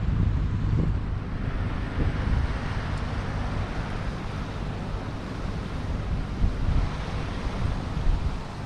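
Wind buffeting the microphone with a fluttering low rumble, over a broad rushing outdoor noise that swells about two seconds in and again near the end.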